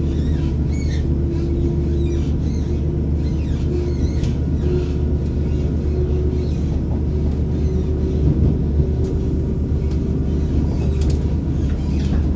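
Class 180 Adelante's underfloor diesel engine running under power, heard from the seat directly above it inside the carriage. It makes a steady low drone with a higher whine that creeps slightly up in pitch as the train gathers speed.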